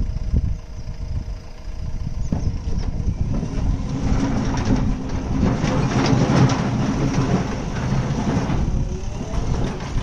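Diesel engine of a JCB earthmoving machine running, working harder and louder from about four seconds in, then easing back near the end.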